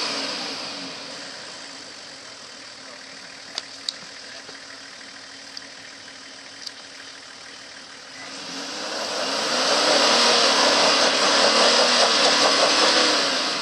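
Engine of a bogged Nissan Patrol 4WD idling with a few sharp clicks, then revved hard from about eight seconds in for several seconds with a loud rushing noise over it, as the stuck vehicle tries to drive out of the rut.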